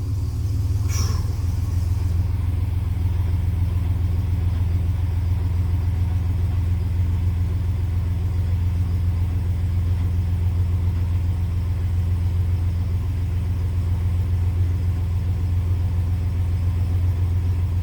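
A 2005 GMC Sierra's 4.3 L V6 engine idling steadily with an even low hum, freshly started after several cranking attempts failed. A brief noise is heard about a second in.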